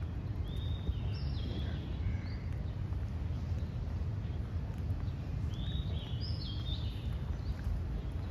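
A bird singing two short phrases of high notes, the first about half a second in and the second past the middle, over a steady low outdoor rumble.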